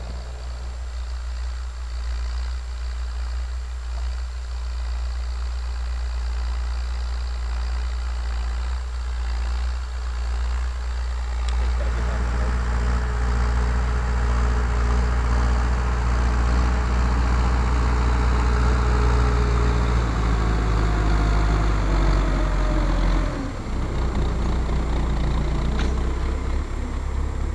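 MTZ tractor's four-cylinder diesel engine running steadily while ploughing. It grows louder about halfway through and dips briefly near the end.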